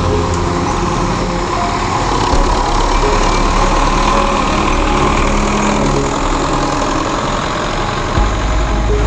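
Diesel engine of a Belarus 510 tractor running steadily, with a change in its low note about eight seconds in.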